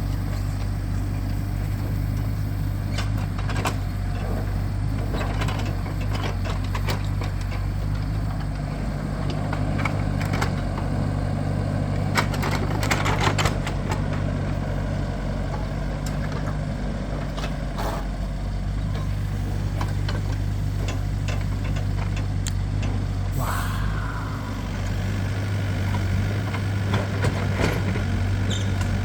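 A heavy engine running steadily, with scattered knocks and clatter of logs being loaded, densest about halfway through, and a short rising whine a little after that.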